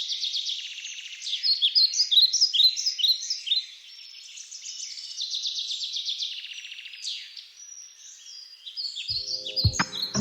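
Several songbirds singing together, a dense mix of fast trills and short chirps. Music comes in near the end.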